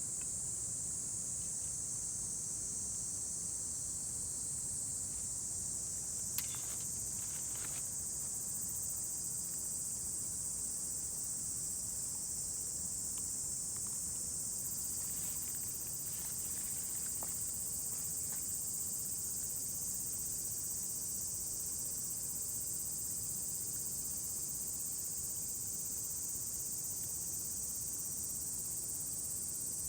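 A steady, high-pitched chorus of insects chirring on a summer evening, with a few faint crackles from the wood fire about six and seven seconds in.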